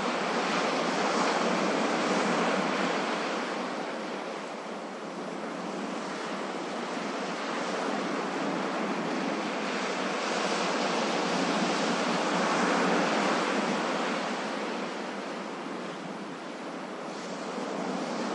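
Ocean waves washing onto a shore in a steady rush, swelling and ebbing slowly, with the loudest surges near the start and about two-thirds of the way through.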